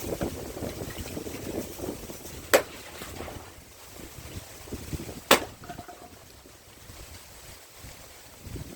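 Two sharp axe strikes on a pine log, about three seconds apart, from a large hand-forged splitting axe, with wind noise on the microphone.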